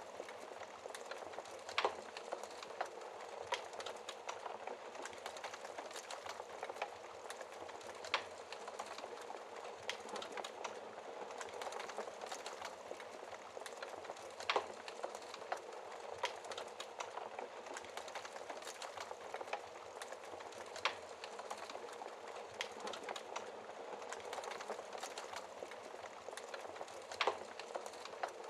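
Wood fire crackling steadily in a fireplace, a dense bed of small crackles with a louder sharp pop every few seconds, five in all.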